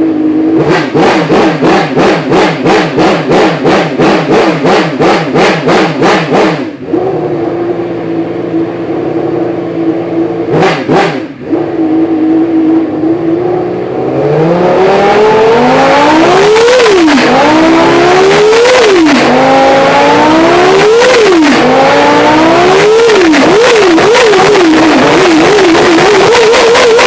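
Honda Formula One racing engine running on a stand: it idles, is blipped in a fast run of short, even throttle stabs, idles again with a single blip, then is revved hard in a series of long climbs and falls in pitch that come quicker near the end.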